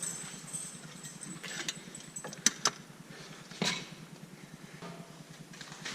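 Metal parts and tools clinking during work on the clutch of a 1963 Ford 4000 tractor, as the throwout bearing, spring and pin are fitted: two sharp ringing clicks about two and a half seconds in, then a duller knock a second later.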